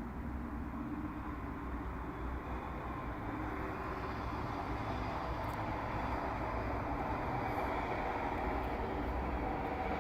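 Steady low rumble of vehicle noise, growing a little louder about four seconds in.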